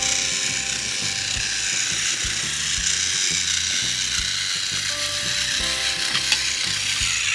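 Battery-powered toy Thomas the Tank Engine's motor and gears whirring steadily as it pulls its boxcars around the track, with background music underneath.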